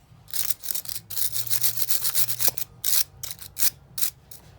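Quick scrubbing or rubbing strokes worked back and forth by hand, about three strokes a second in uneven runs, starting a moment in.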